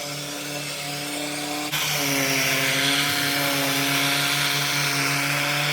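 Power tool running with a steady whine over a hiss; the sound jumps louder about two seconds in.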